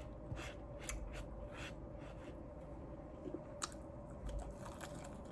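Close-up chewing and biting into crispy fried chicken wings, with several short crunches.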